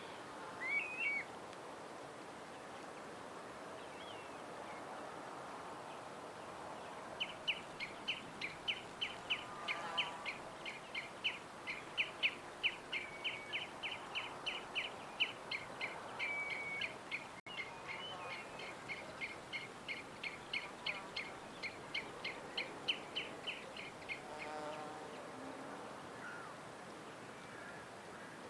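Wild birds chirping. A short call comes about a second in, then from about seven seconds in one bird gives a long run of short, quick chirps, about four a second, that stops some seventeen seconds later, over a faint steady outdoor hiss.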